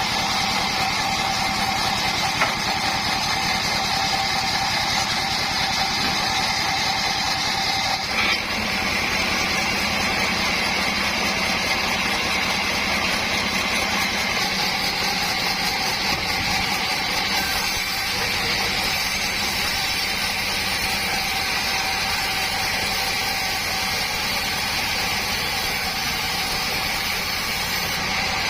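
Sawmill board saw running steadily, a constant mechanical hum with several high steady tones. There is a sharp knock about two and a half seconds in, and about eight seconds in the high whine grows stronger and stays that way.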